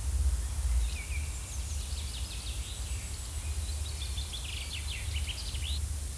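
Forest ambience: birds chirping with quick twittering notes over a steady low rumble.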